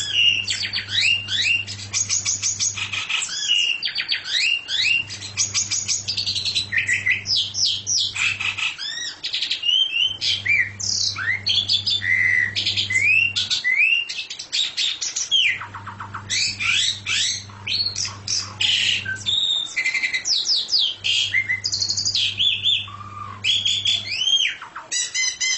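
A songbird singing a rapid, unbroken stream of varied whistles, trills and chirps. Under it, a low hum comes and goes every few seconds.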